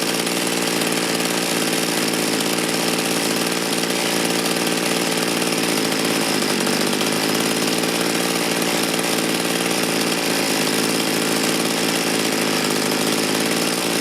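Mantis mini tiller's two-stroke engine running steadily with its air filter off, while the carburetor's low-speed mixture screw is being adjusted.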